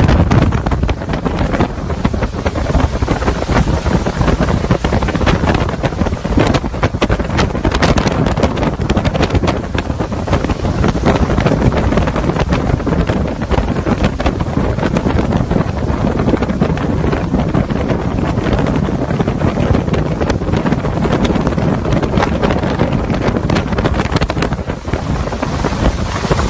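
Hurricane wind blowing hard and buffeting the microphone: a loud, continuous rush of noise with constant low rumble and rapid crackling flutter, with no let-up.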